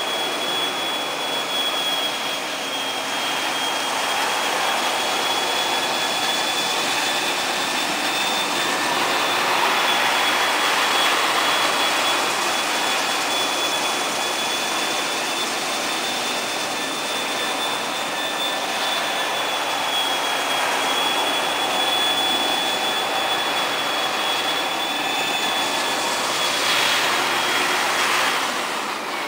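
Kärcher floor scrubber-dryer running steadily: a rushing motor and suction noise with a high whine over it. Right at the end the whine briefly drops in pitch and climbs back.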